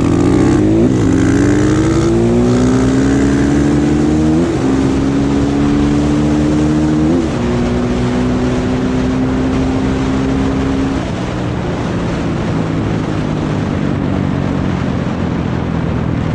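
Dirt bike engines accelerating hard from a standing start, the engine note climbing and then briefly dipping at three gear changes. About eleven seconds in, the throttle is eased off and the engines settle to a lower, steady run.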